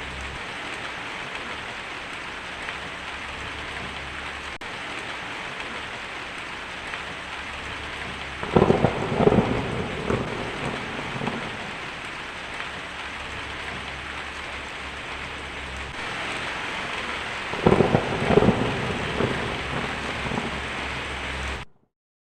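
Steady heavy rain with thunder: two thunderclaps, about eight and eighteen seconds in, each a cluster of sharp cracks rumbling on for a couple of seconds. The sound cuts off suddenly near the end.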